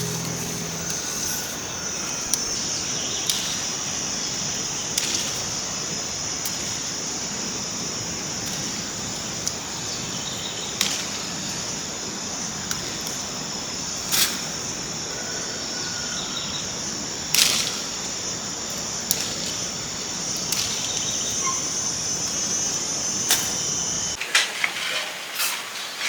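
Steady high-pitched insect chorus with scattered sharp clicks every second or two; the chorus stops shortly before the end, and a few closer clicks and knocks follow.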